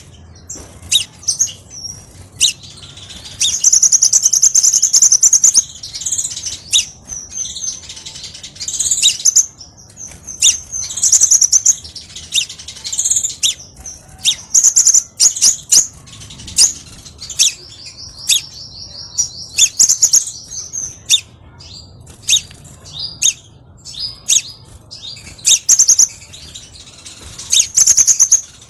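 Crimson sunbird singing: high, rapid twittering trills and sharp chirps, repeated over and over, with a long fast trill about two-thirds of the way through.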